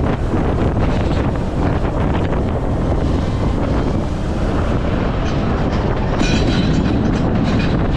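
Strong wind rumbling on the microphone, mixed with the rumble and rattle of a heavy vehicle; sharper hissing and clattering come in from about five seconds in.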